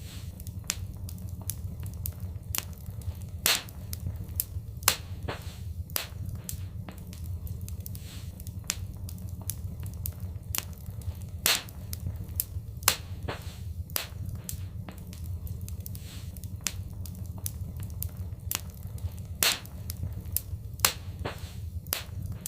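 Fireplace fire crackling: frequent sharp snaps and pops, a few much louder ones every few seconds, over a steady low rumble of the flames.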